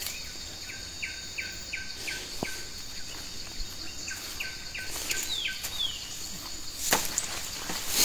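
A bird calling in two runs of short repeated notes, about two to three a second, ending in two quick falling notes, over a steady high hiss of insects. A brief rustle near the end.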